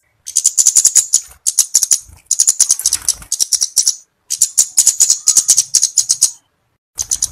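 Flowerpecker calling in full voice: rapid runs of high, sharp ticks, about ten a second, each run lasting one to two seconds, with short pauses between.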